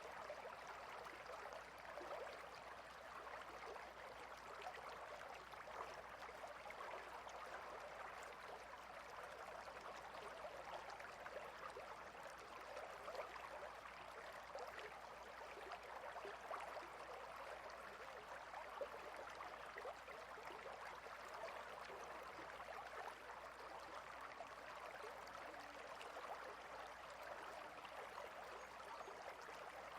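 Clear river water running and babbling over rocks, a steady faint flow with small splashes flickering through it.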